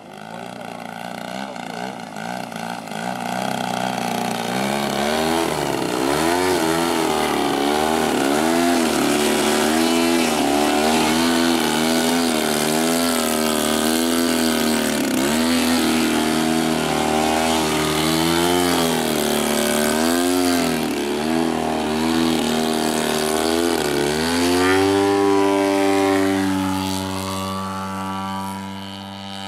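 120 cc gasoline engine and propeller of a 35% scale Hangar 9 Extra 300 radio-controlled aerobatic plane flying 3D manoeuvres, its pitch rising and falling every second or two as the throttle is worked. About 25 seconds in the pitch rises and holds steady, and the sound grows fainter near the end.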